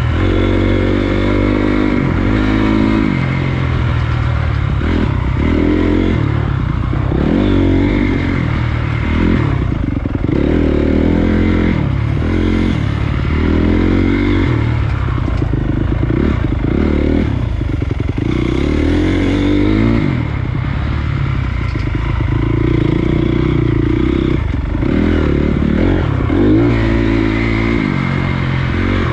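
Honda CRF250 dirt bike's single-cylinder four-stroke engine running under way, its revs rising and falling every second or two as the throttle is worked.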